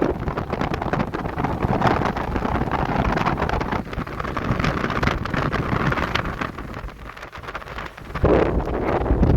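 Strong gusting wind buffeting the microphone, easing off for a moment about seven seconds in and gusting back up a second later.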